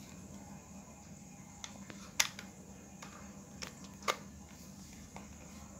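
A few sharp plastic clicks from handling a power bank and its charging cable, the loudest about two seconds in and another about four seconds in, over a low steady hum.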